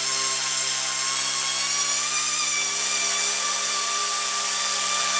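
Blade mCP X BL2 micro RC helicopter's brushless motor and rotor head spinning up to speed, giving a steady high whine.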